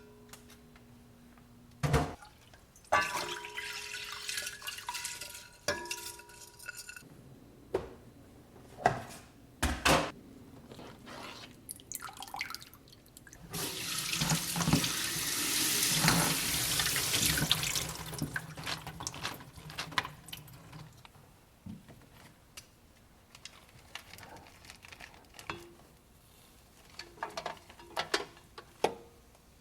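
A kitchen tap running for about six seconds in the middle, with clinks and knocks of dishes and utensils before and after, some ringing briefly.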